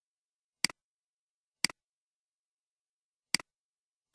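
Computer mouse button clicked four times, each click a quick double tick of press and release, with silence between.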